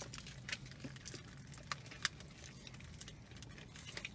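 Close-up mouth sounds of two people eating a burrito and tacos: scattered soft wet clicks and smacks of chewing and biting, the sharpest about two seconds in, over a low steady hum.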